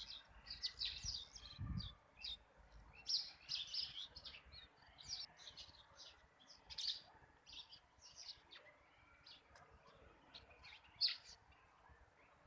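Small birds chirping: many short, high chirps in quick, irregular runs. A brief low rumble comes in under them near the start.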